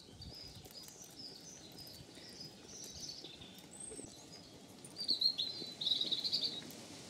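Wild birds singing: a scatter of short high chirps and trills over a faint steady outdoor hiss, with a louder, busier song phrase about five seconds in.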